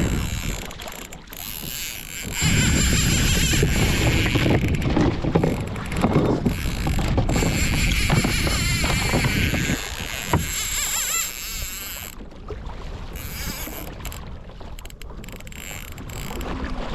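Wind buffeting the microphone and water rushing along a kayak as a hooked kingfish tows it, with mechanical clicking from the fishing reel as line goes out. The rush comes in loudly a couple of seconds in and eases off after about ten seconds.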